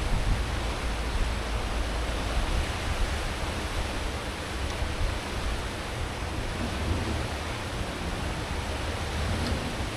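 Steady rush of a cruise ship's wake churning behind the stern at full speed, over the deep hum of its engines and propellers. The low rumble is heavier for the first couple of seconds, then eases.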